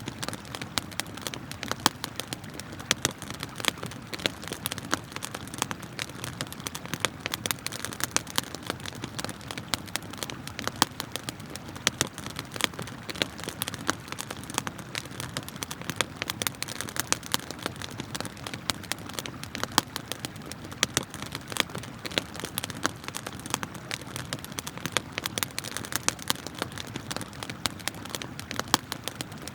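Wood campfire crackling with many irregular sharp pops and snaps, over the steady rushing of river water.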